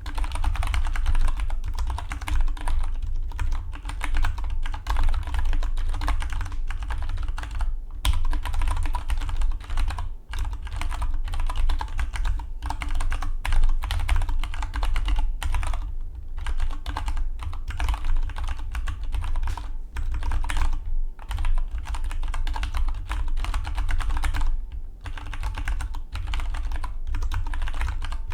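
Fast, continuous typing on a Dygma Defy split mechanical keyboard: a dense run of keystroke clicks broken by a few brief pauses, with a low steady hum underneath.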